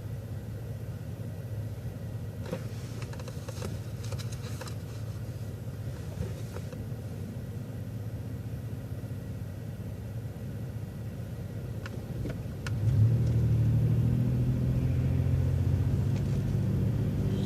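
City transit bus engine and road rumble heard from inside the bus, steady and low, with a few faint clicks and rattles. About thirteen seconds in the engine tone steps up and grows louder as the engine works harder.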